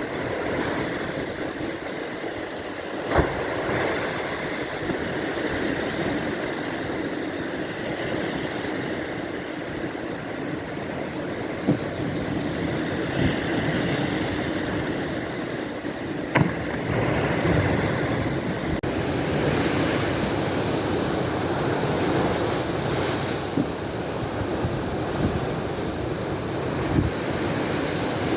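Baltic Sea surf washing onto the shore: a steady rush of waves with wind buffeting the microphone. A few brief sharp knocks stand out, about three seconds in, near the middle and a little after.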